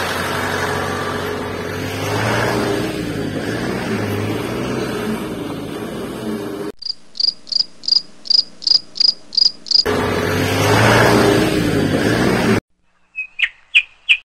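A run of about ten evenly spaced high chirps, roughly three a second, set between stretches of dense noisy background with some low pitched calls; a few short high clicks near the end after a sudden drop to near silence.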